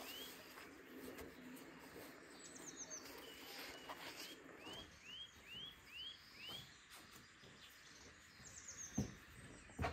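Birds calling: runs of short rising chirps repeated every half second or so, and twice a quick high falling trill. Under them a faint rustle of thin pastry sheets being handled, with a sharp knock near the end.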